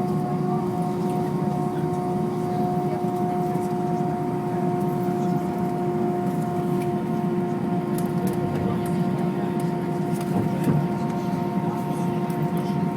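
Cabin noise inside an Airbus A320-232: its IAE V2500 engines running steadily, a constant rumble with a few unchanging whine tones on top, and light rattles from the cabin.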